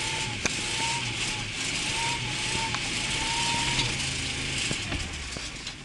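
A Lada Zhiguli's engine running steadily as the car drives over snow and ice, under a loud hiss of snow and tyres, with a thin whistling tone that comes and goes.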